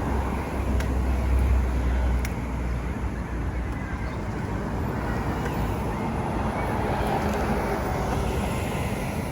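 Road traffic on a city street as a steady wash of noise. A vehicle's low engine rumble is loudest in the first few seconds as it passes close, then fades back into the traffic.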